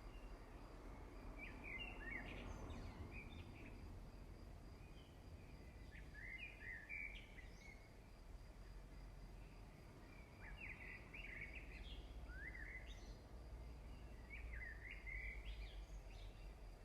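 Faint birdsong: short clusters of quick chirps every few seconds, over a low steady rumble.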